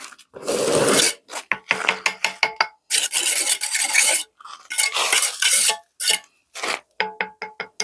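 Repeated rasping, scraping strokes, like something being filed or scrubbed by hand. They give way near the end to quick light clinks that ring briefly, as of metal being knocked.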